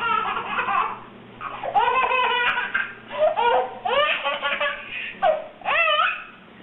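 A young child laughing hard in about six high-pitched bursts, with short breaks between them.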